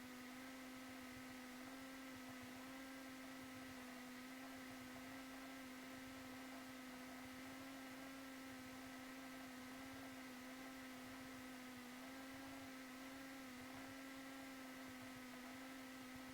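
Near silence with a faint, steady electrical hum and its overtones, wavering slightly in pitch, on the cockpit intercom line.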